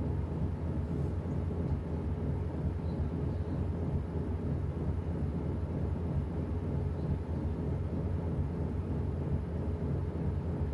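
Washing machine running through its cycle: a steady low rumble with a faint hum, no change in level.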